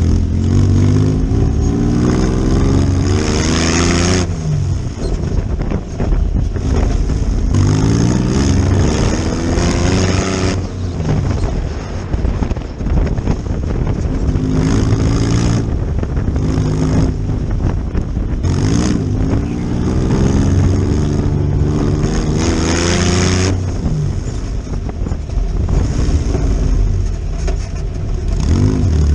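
Air-cooled VW engine of an off-road buggy revving up and easing off again and again, its pitch rising and falling several times as it drives over dirt jumps. A few bursts of rushing noise come in between the revs.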